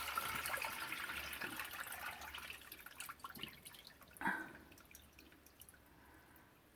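Water trickling and dripping in a basement sump pit, fading away over a few seconds, with one louder drip about four seconds in.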